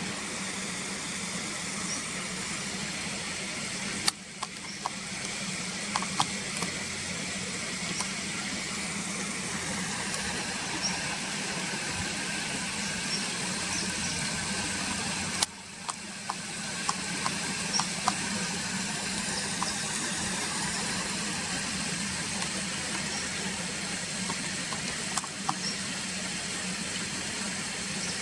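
Steady outdoor background noise with a low hum. It is broken twice by a sharp click, about four seconds in and again near the middle, each followed by a brief dip in level, and a few faint ticks are scattered through.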